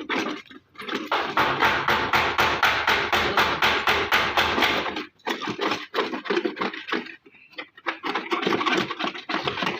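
Hand-tool work on bare car bodywork: a fast, even run of sharp strokes, about seven a second, that breaks off about five seconds in and then goes on more irregularly.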